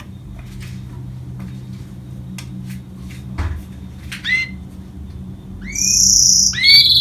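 Goldfinch × canary hybrid (a 'mule'): a short call about four seconds in, then loud, high trilled song starting near the end, over a faint steady low hum.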